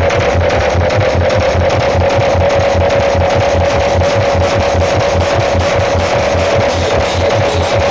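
Large outdoor sound-system loudspeakers playing loud, with rapid, even bass thumps under a steady held tone.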